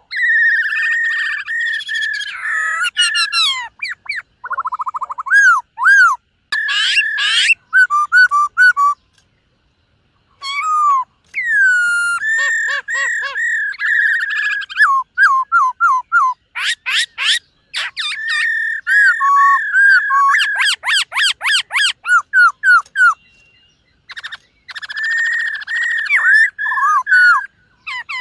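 Black-throated laughingthrush singing loudly: varied whistled phrases, rapid trills and sliding notes, broken by two short pauses.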